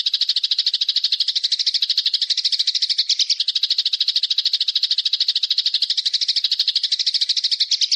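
Recorded bird call: a small songbird's very fast, unbroken chattering trill of high notes at an even pace, cutting off abruptly at the end.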